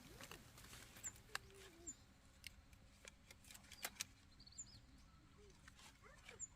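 Near silence: faint outdoor ambience with scattered light clicks and a few faint short chirps.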